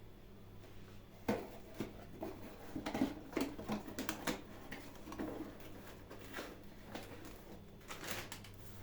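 Small hard objects being handled: an irregular run of light clicks and knocks that starts about a second and a half in and thins out toward the end.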